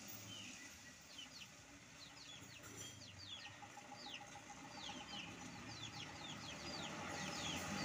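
Birds chirping: a quick run of many short, high, falling chirps, some overlapping, over a faint low background noise that slowly grows louder toward the end.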